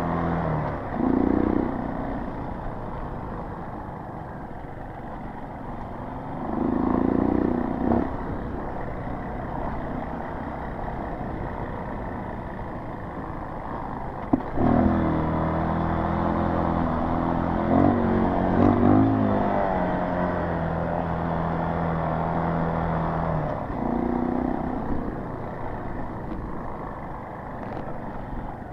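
Dirt bike engine running on a trail ride, rising and falling with the throttle. A sharp knock comes about fourteen seconds in, after which the engine runs louder and steadier, with quick revs a few seconds later.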